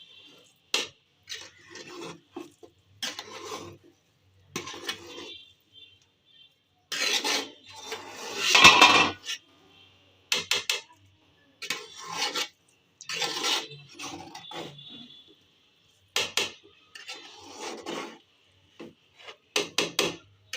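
A spatula scraping and knocking against a cooking pot in irregular strokes as steaming biryani rice is turned over so that it cooks evenly; the loudest stroke is about eight to nine seconds in.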